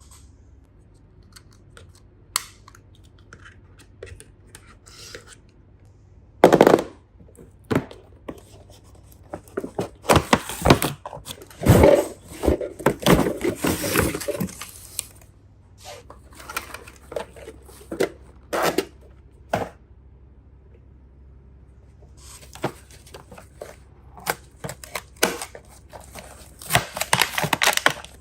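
Hands handling small plastic toy pieces: irregular clicks, taps and rustling, busiest in the middle and again near the end.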